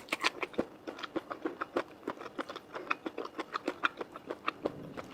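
Close-up chewing of noodles: a quick, uneven run of small wet mouth clicks and smacks, several a second.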